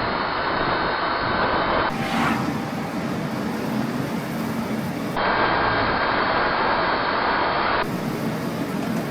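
Home-built electric pickup truck driving: steady road and wind noise with a faint steady whine, changing abruptly at a few cuts between clips.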